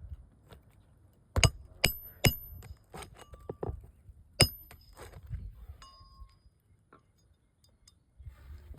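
Sharp metallic clinks as steel roofing tools strike and work the nails holding the shingles. Four loud strikes ring briefly in the first half, followed by lighter taps and clicks.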